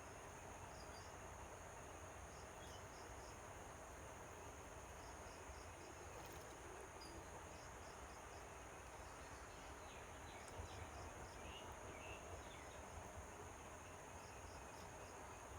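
Faint outdoor insect chorus: a steady high-pitched drone with crickets chirping in short groups of three or four, repeating every second or two. A few brief faint chirps come in about two-thirds of the way through.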